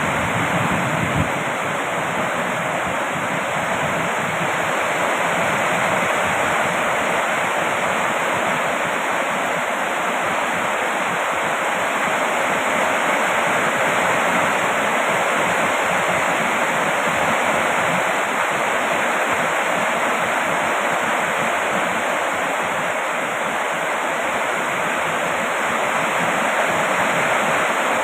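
Heavy rain falling steadily, an even, unbroken hiss. A low rumble from just before fades out about a second in.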